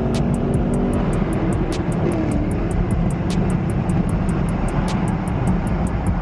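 Steady engine and road noise of a car driving at expressway speed, with a low drone and no sharp events.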